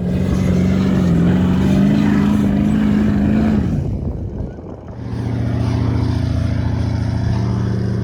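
Four-wheel-drive engine running hard under load in soft sand on a dune attempt; its note holds steady, then falls away about three and a half seconds in. After a short lull, a lower, steady engine note starts about five seconds in and continues.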